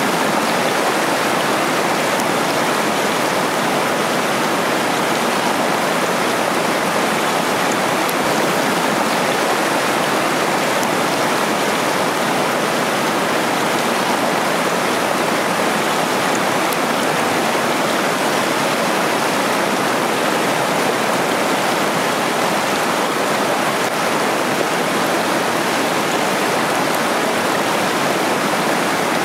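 Waterfall and fast stream water rushing and splashing over rocks in a steady, unbroken roar.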